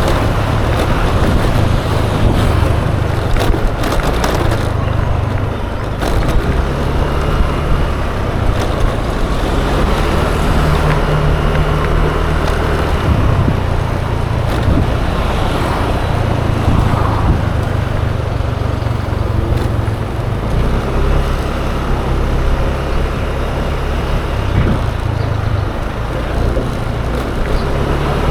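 Yamaha Aerox 155 scooter's single-cylinder engine running steadily while riding through traffic, with wind and road noise on the microphone; the engine pitch shifts a little now and then with the throttle.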